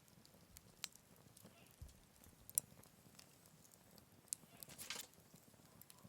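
Wood campfire crackling faintly, with a few sharp, separate pops, the loudest about two and a half seconds in, and a brief hiss near the end.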